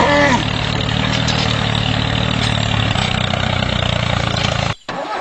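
Small engine of a homemade mini tractor running steadily at idle, then cutting off abruptly near the end.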